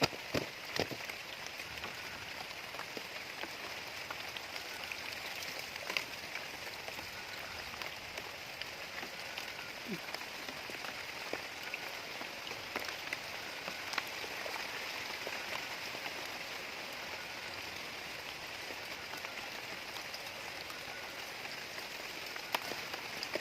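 Steady rain falling in an even hiss, with a few sharp taps of drops now and then.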